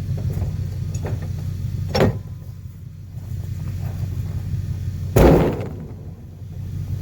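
A vehicle engine idling with a steady low hum, broken by two loud bangs about three seconds apart, the second the louder.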